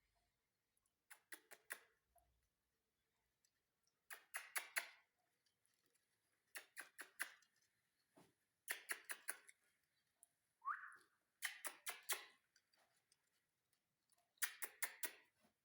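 Faint bursts of four or five quick, sharp clicks, repeating every two to three seconds, with one short rising whistle-like chirp about eleven seconds in.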